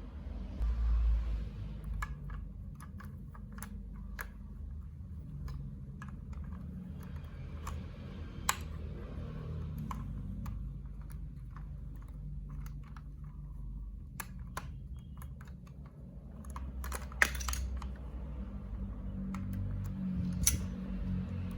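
Irregular light clicks and clacks of plastic marble run building-block pieces, with a denser run of clicks about 17 seconds in.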